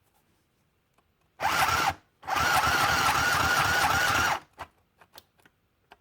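Easy Home mini sewing machine stitching through paper, starting and stopping in a sputtery way: a half-second burst, a brief stop, then about two seconds of steady running with a fast stitching rattle and a wavering whine, followed by a few light clicks.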